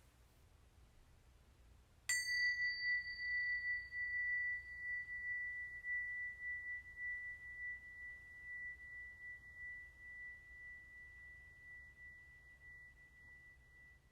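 A small meditation bell struck once about two seconds in, ringing with one clear high tone that slowly fades with a gentle waver and is still sounding at the end. It marks the start of the meditation practice.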